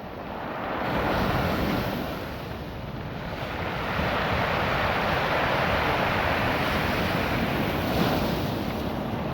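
Ocean surf washing over a beach of small rounded cobble stones: a continuous rushing wash that swells about a second in, eases briefly, then builds again and holds strong, with the stones rattling as the water runs over them.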